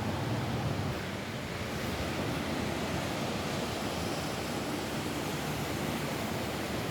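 Steady rain falling on a roof: an even, unbroken rush of noise.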